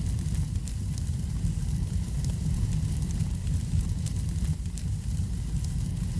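Wood fire burning in a fireplace: a steady low rumble of flames with small, scattered crackles and pops.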